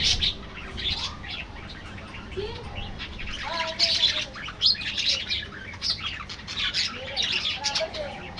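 A flock of budgerigars chirping and chattering, with many short calls overlapping continuously and a few lower warbling notes mixed in.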